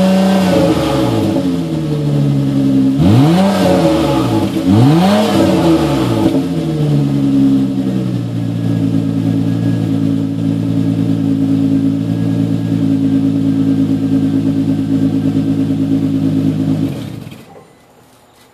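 2003 Nissan Maxima's 3.5-litre VQ V6 running through a gutted stock muffler with nothing inside. The revs drop at the start, two quick throttle blips rise and fall, and then it settles to a steady idle before the sound cuts off suddenly near the end.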